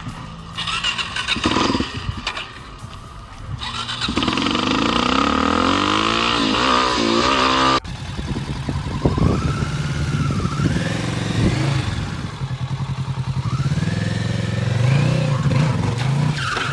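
Motorcycle engines revving under acceleration, the pitch climbing and falling again and again. The sound changes abruptly about four and eight seconds in.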